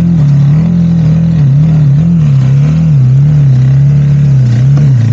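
Motorcycle engine running under way, its pitch rising and falling over and over as the throttle changes.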